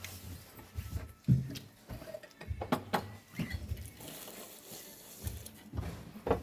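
Scattered light knocks and clinks of cutlery and crockery at a breakfast table, over a low steady room hum.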